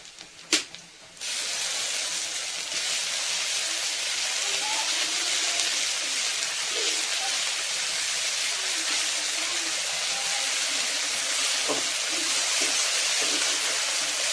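Hot oil in a metal wok sizzling as a wet spice paste hits the frying onions and dried chillies. There is a single sharp click about half a second in, then the sizzle starts suddenly about a second in and runs on loud and steady.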